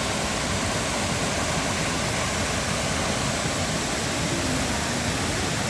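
Kiwai waterfall, a steady, unbroken rush of falling water.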